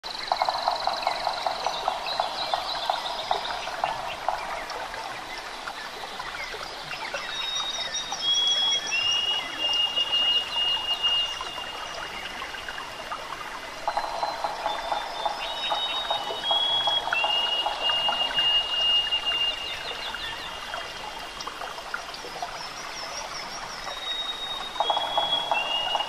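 Birds singing: bouts of fast chattering trills alternate with high, thin whistled notes that each hold a steady pitch, and the pattern recurs several times.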